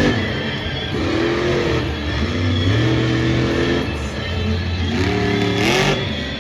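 Monster truck's blown alcohol-burning engine revving up and down several times, with a final steep rise in pitch near the end.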